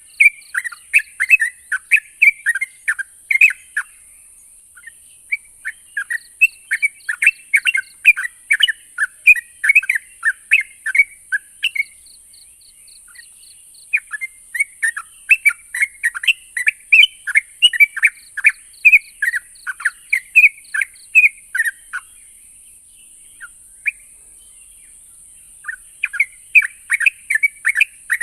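Sooty-headed bulbul (trucuk) singing: runs of quick chirping notes in phrases of several seconds, breaking off briefly a few times, over a steady high hiss.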